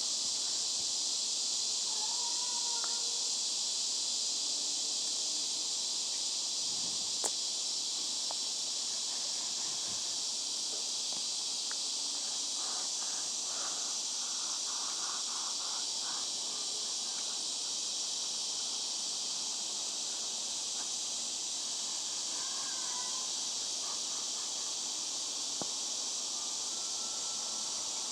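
Steady, high-pitched chorus of insects such as crickets, with a few faint short chirps and a single click about seven seconds in.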